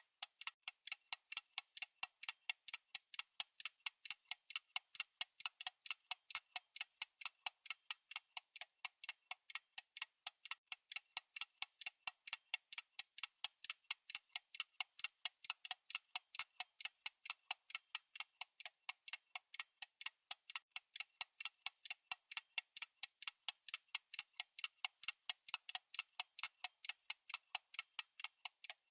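Clock ticking sound for a countdown timer: crisp, even ticks that go on without a break, alternate ticks louder and softer like a tick-tock.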